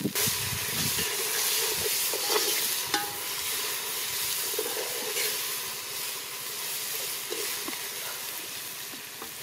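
Onions, green chillies and ginger-garlic paste frying in oil in a metal pot, with a steady sizzle, stirred with a metal ladle that scrapes against the pot a few times.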